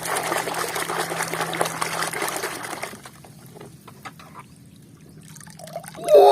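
Water running and splashing over a plastic toy as it is washed, for about three seconds, then only faint trickling and a few light knocks. Right at the end a loud, drawn-out voiced exclamation begins.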